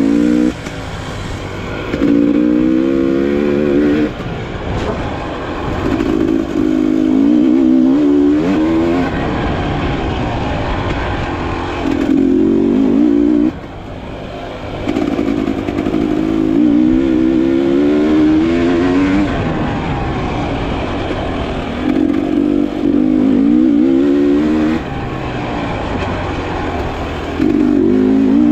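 Enduro motorcycle engine revving hard in repeated surges, its pitch climbing through each and dropping back between them, as when accelerating through the gears.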